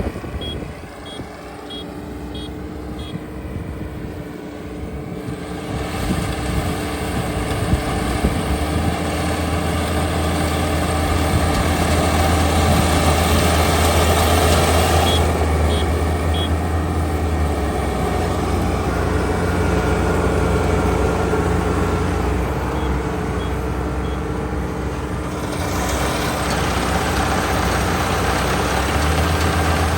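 Kubota ER572 combine harvester's 72 hp engine running steadily, growing louder after about six seconds. Short runs of high electronic beeps sound near the start, about halfway through and again about three quarters of the way in.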